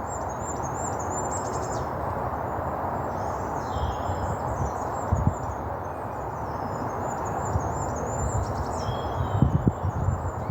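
Many small birds chirping and singing over a steady background hiss of outdoor noise. In the last couple of seconds come several low thumps and rustles, like footsteps through leaf litter.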